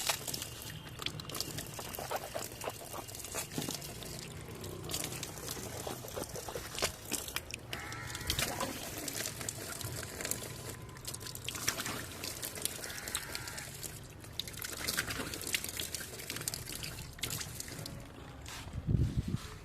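Diesel machinery running at a distance with a low steady hum, under a rushing, pouring sound of loose material, scattered clicks and knocks.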